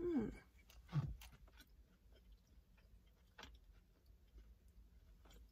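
A person chewing a mouthful of steak fajita in a crisped flour tortilla, mouth closed, with faint crunches. Near the start come two short hummed "mm" sounds, the first falling in pitch; these are the loudest part.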